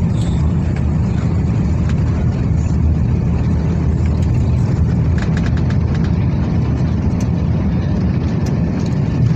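Airbus A350 airliner noise picked up at the nose landing gear: a steady, loud low rumble, with a few faint ticks about five seconds in.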